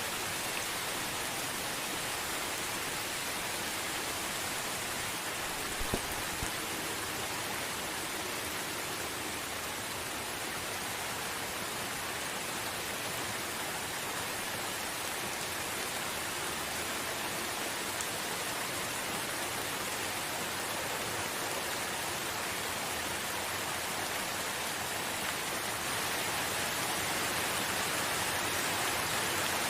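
Steady, gentle rain falling, an even hiss of drops with no thunder. There are a couple of faint ticks about six seconds in, and the rain grows a little louder near the end.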